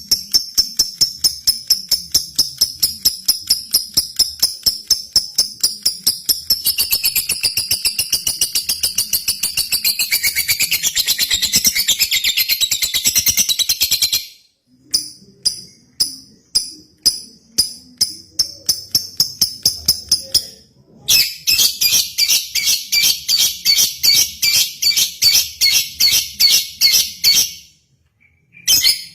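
Lovebird singing a long, rapid chatter of high chirps, several a second, in sustained runs. One long run lasts about fourteen seconds, then breaks into scattered chirps, and a second dense run follows from about twenty-one seconds.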